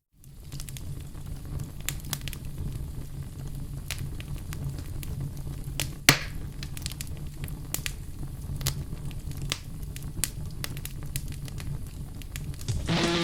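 Campfire burning with irregular crackles and pops over a steady low rumble, and one louder pop about six seconds in.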